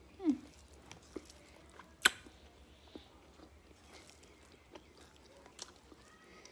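Close-miked chewing: wet mouth sounds and lip smacks, with a few sharp clicks, the loudest about two seconds in.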